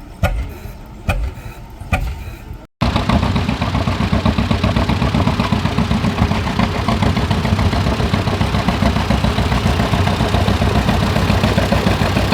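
An engine firing slow, evenly spaced pops about once a second. After a sudden cut, a loud engine runs steadily with rapid firing pulses.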